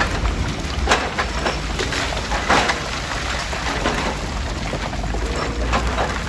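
Heavy rock-crushing machinery running with a steady low rumble under irregular crunching and clattering of stone, with the sharpest cracks about a second and two and a half seconds in.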